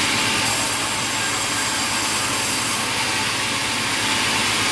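Sawmill machinery running with a steady, even noise, no separate cuts or impacts standing out.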